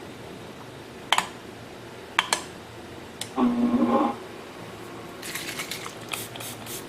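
Scattered sharp clicks of the ceramic shear and the sharpening machine being handled, and a brief steady motor hum of under a second about halfway through. A light scratchy hiss follows near the end, as the shear's corners are worked on the wet diamond abrasive.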